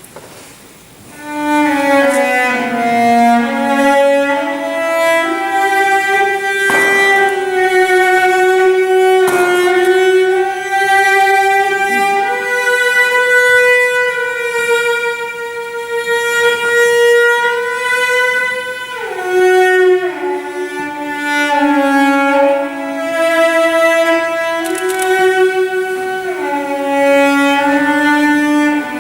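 A slow solo melody on a bowed string instrument with vibrato, entering about a second in. It plays one line of held and gliding notes.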